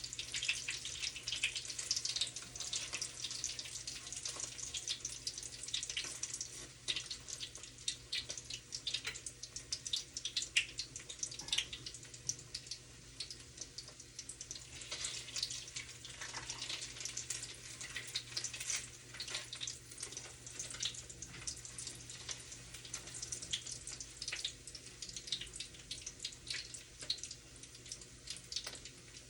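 Egg and chicken breast frying in oil in a pan: a steady sizzle full of small crackles and pops, louder for the first several seconds and then settling.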